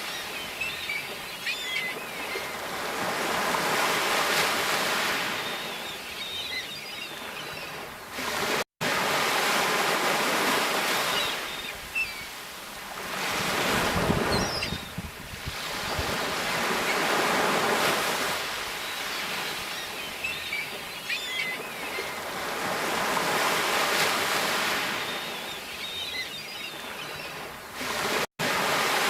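Sea waves surging and breaking, the wash swelling and fading every four to six seconds with a fizzing hiss of foam. The sound cuts out for an instant twice.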